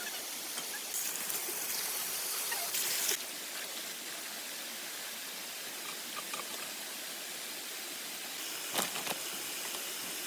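Steady rushing noise of running water, with a brighter hiss from about one to three seconds in and a single sharp knock near the end.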